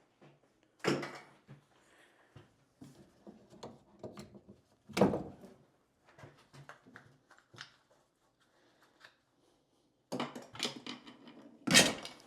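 PEX cutter snipping through PEX water supply lines under a bathroom vanity: sharp snaps, loud about five seconds in and loudest near the end, among lighter clicks and knocks of the tool and cabinet being handled.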